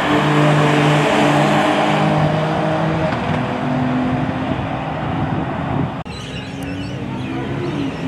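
Performance car engines running hard under full throttle during a roll race. About six seconds in, the sound cuts abruptly to another engine, which rises in pitch as it accelerates.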